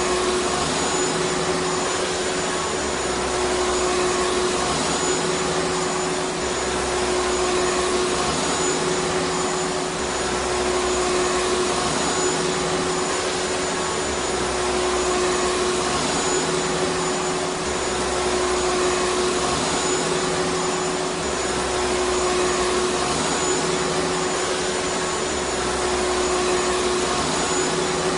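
Vacuum cleaner running steadily: a dense, even motor and airflow noise with a constant mid-pitched whine and a faint high whistle.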